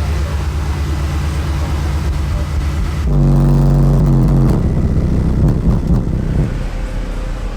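Very loud subwoofer bass from a competition car audio system, pulsing and overloading the recording. About three seconds in it jumps louder into a deep held bass note, which then breaks up and eases off.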